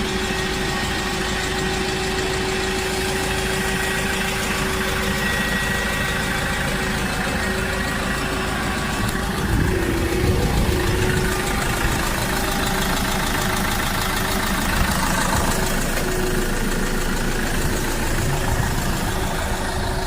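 Diesel box truck engine idling steadily, with a brief louder swell about ten seconds in.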